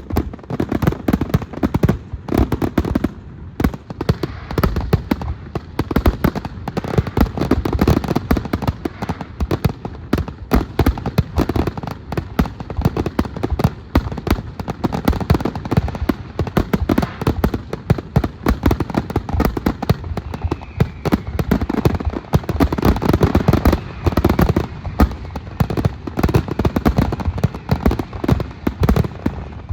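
Aerial fireworks going off in a dense, continuous barrage of bangs and crackles, many bursts a second.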